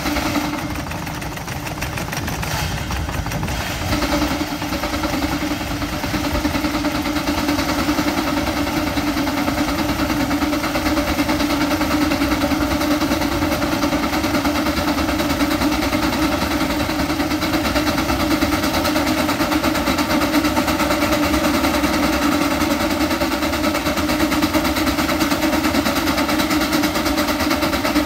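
Engine-driven sawmill machinery running steadily, with a steady hum that settles in about four seconds in.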